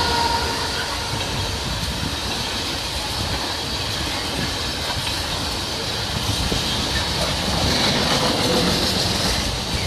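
Freight train rolling past, with a steady rumble and clickety-clack of wagon wheels on the rails. A high wheel-squeal band swells around eight seconds in.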